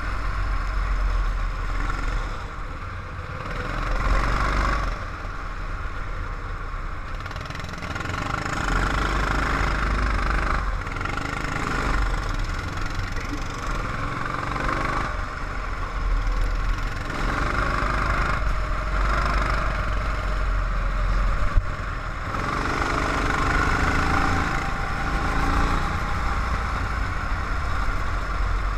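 Car engine heard from an onboard camera, running with a steady low rumble while its note swells and fades every few seconds as the revs rise and fall. A single sharp knock about three-quarters of the way through.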